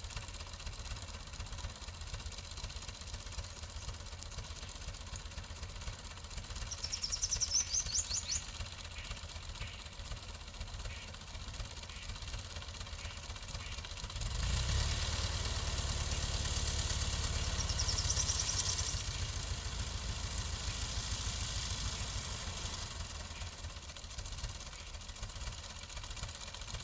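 Russian tractor's diesel engine running steadily, growing louder about halfway through for several seconds before easing back.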